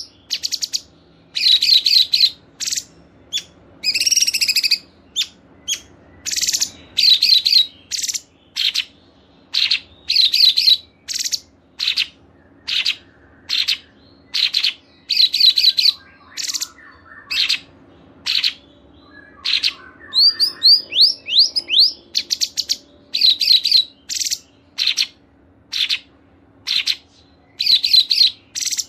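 Small songbirds singing in short, rapid high chirps and fast trills, each burst separated by a brief pause.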